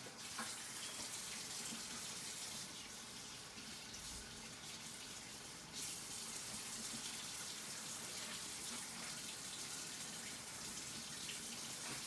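Kitchen faucet running into the sink as raw chicken wings are rinsed under it. The water runs steadily, getting a little louder about six seconds in.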